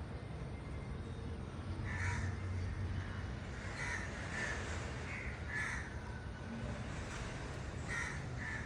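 A bird calling outdoors: about seven short calls at irregular intervals over a steady low background rumble.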